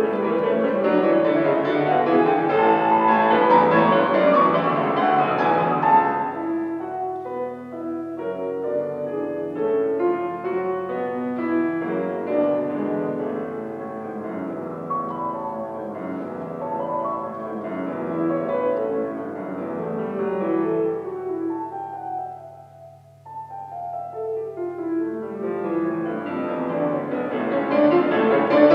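Solo piano playing classical music: loud, fast rising runs for the first six seconds, then a quieter passage that dips briefly near the end before swelling loud again. A steady low hum sits underneath.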